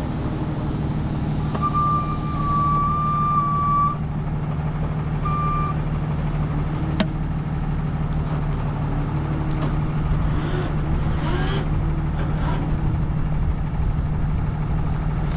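A heavy diesel truck engine running steadily. An electronic beep tone sounds for about two seconds early in the stretch, then once more briefly, with a single sharp click a few seconds later.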